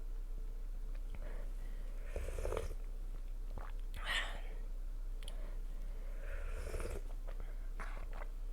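Close-miked eating sounds from a person chewing food, with three or four short, louder wet mouth noises and scattered small clicks.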